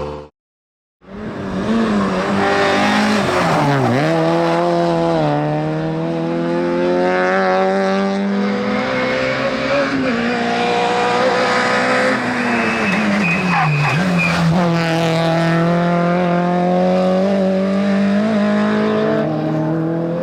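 Rally car engine at high revs, pitch climbing steadily then dropping sharply twice before climbing again, as the car is driven hard through the gears. It follows a brief silence just under a second in.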